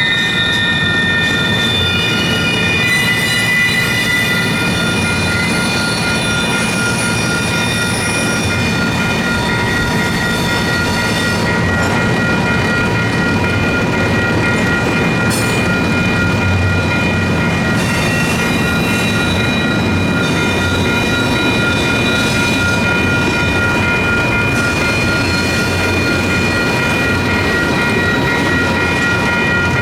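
Intermodal double-stack freight cars rolling steadily past, with steel wheels rumbling on the rails and squealing high in the first few seconds as the train takes the curve. A steady ringing from the crossing's electronic bell runs on through it.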